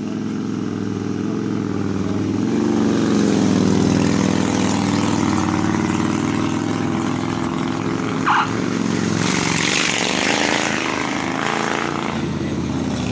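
Harley-Davidson touring motorcycles' V-twin engines pulling up a steep hill one after another, the engine sound building over the first few seconds as the lead bike approaches. A brief higher-pitched sound about eight seconds in.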